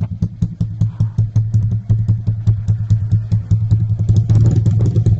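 Motorcycle engine running through an aftermarket trioval exhaust, a fast steady train of exhaust pulses with a deep hum, getting louder about four seconds in as the throttle opens a little.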